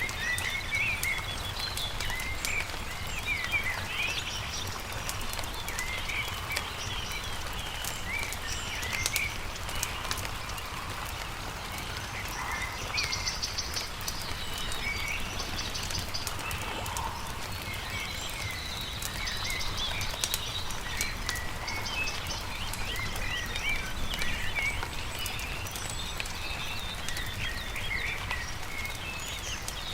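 Many small birds singing, overlapping chirps and trills throughout, over a crackling campfire with scattered sharp pops and a steady low rumble underneath.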